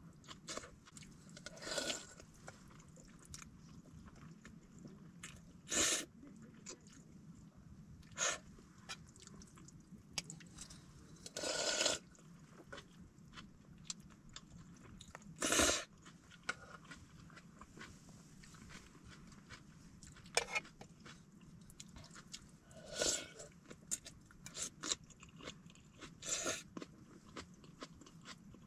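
A person eating stir-fried rice noodles close to the microphone: irregular chewing and crunching, with a few louder noises a few seconds apart.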